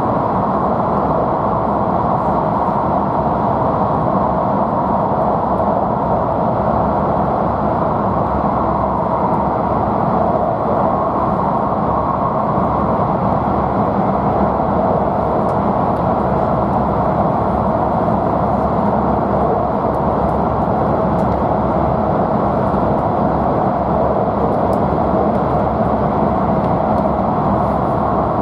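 Steady running noise of an E5 series Shinkansen train heard from inside the car as it travels through the Seikan Tunnel. The tunnel walls close around the train, giving an even, unbroken rumble with no change in pitch or level.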